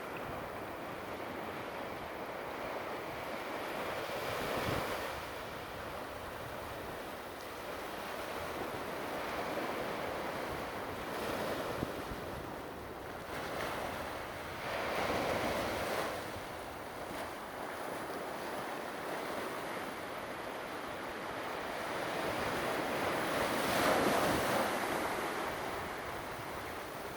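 Ocean surf washing onto the shore: a continuous rushing hiss that swells with each breaking wave every few seconds. The biggest surge comes about three quarters of the way through.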